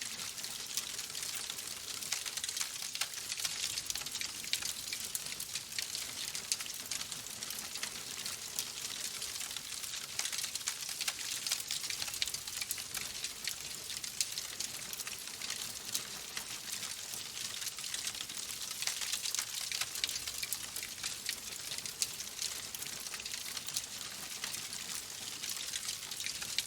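Wood fire in a fireplace crackling steadily: a dense stream of small, sharp pops and snaps from the burning logs over a soft hiss, with no pauses.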